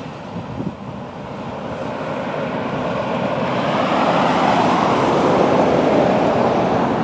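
Freight cars rolling on the track during switching: a rushing rumble that grows louder over the first four seconds and then holds, with a few light knocks about half a second in.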